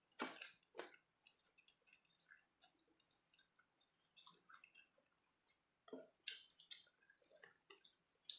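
Faint sounds of a person eating fried rice by hand: wet chewing and lip-smacking, heard as scattered short clicks, a little louder at the start and about six seconds in.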